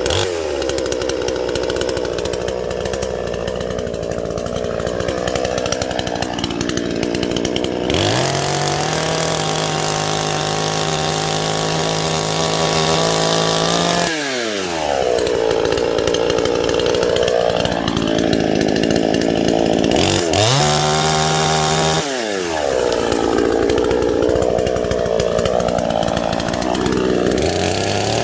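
Chainsaw fitted with a new chain and bar, cutting dead wood: its engine pitch sags and recovers under load. About 8 s in and again about 20 s in it runs at a steady high pitch between cuts before dropping back into the cut.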